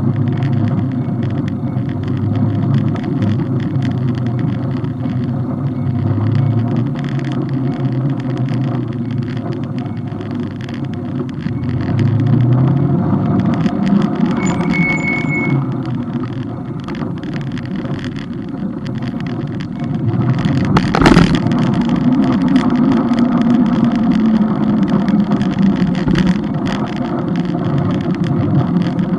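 Steady road-vehicle noise with a low engine hum that rises and falls in pitch, and one sharp knock about two-thirds of the way through.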